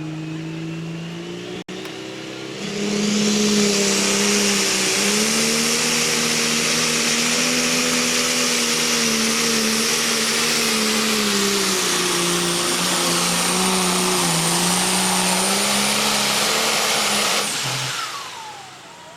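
Turbocharged super stock pulling tractor engine making a full-throttle pass with the sled. It opens up about three seconds in and runs hard, with the engine note wavering under a steady high turbocharger whine. It shuts off sharply near the end, as the pull is over.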